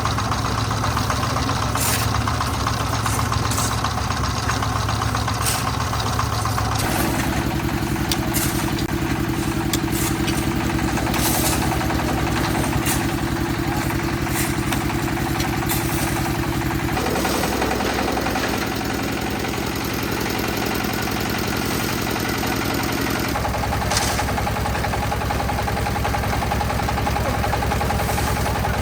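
A concrete mixer's engine running steadily, its pitch changing abruptly three times, with scattered sharp clicks.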